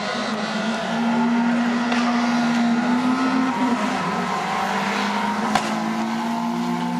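Car engines running, one holding a steady engine note that rises slightly and stays up for several seconds. A single sharp click comes a little past halfway.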